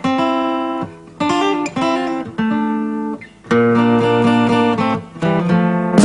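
Music: an acoustic guitar strumming chords in short phrases, with brief breaks between them.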